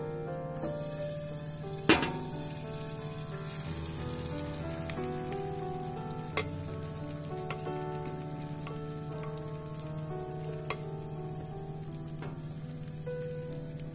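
Grated potato batter sizzling in hot oil in a nonstick frying pan, with a high steady hiss that starts as the batter lands. There is one sharp knock about two seconds in and a few lighter clicks later.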